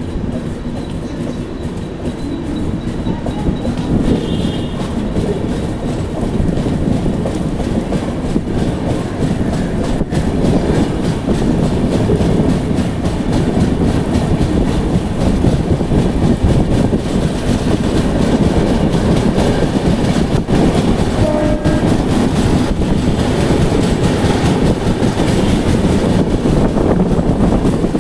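Passenger train running along the track: a steady loud rumble and rattle of the coaches on the rails, with a short train horn note about four seconds in.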